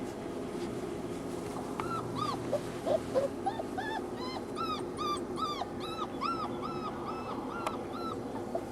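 Labrador puppies whining: a run of short, high, arched whimpers, about two a second, starting about two seconds in.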